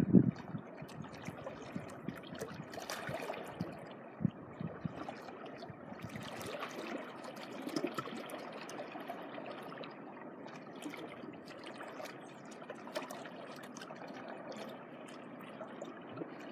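Small sea waves washing and trickling on a beach shore: a steady water wash with faint small clicks.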